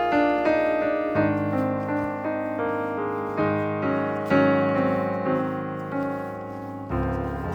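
Solo piano music: a flowing line of notes, each struck and fading, over low bass notes that change about a second in and again near the end.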